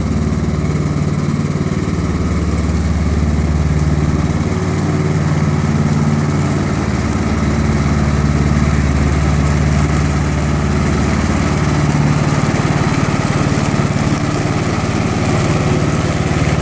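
Tractor engine running steadily, its pitch shifting slightly now and then.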